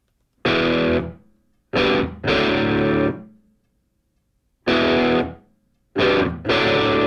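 Music: distorted electric guitar chords struck in separate stabs, each ringing for about half a second to a second and then stopping, with short silences between them.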